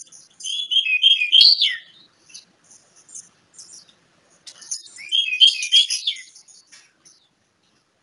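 Oriental magpie-robin (kacer) singing: two loud warbling phrases, about half a second in and again about five seconds in, with thin, scratchy high notes between them.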